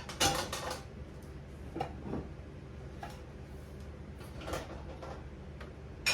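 Dishes being loaded into a dishwasher rack: a quick clatter of knocks about a second long, then a few separate knocks and clinks as pieces are set in.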